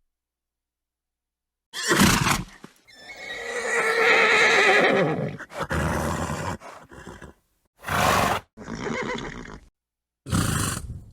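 A horse whinnying and snorting in a run of separate sounds with silent gaps between. A short snort about two seconds in, then a long wavering whinny, then several shorter snorts and blows.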